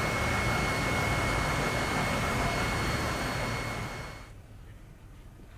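Loud, steady rushing running noise of a moving vehicle with a steady high whine. It cuts off abruptly about four seconds in, leaving quiet outdoor ambience with a few faint clicks.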